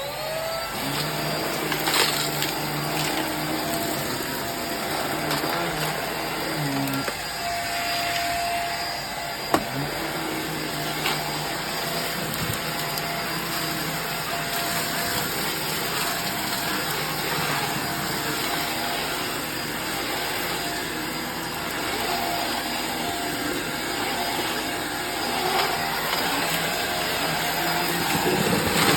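Hoover React cordless stick vacuum switching on, its motor whine rising as it spins up, then running steadily as it picks up a test mess of debris.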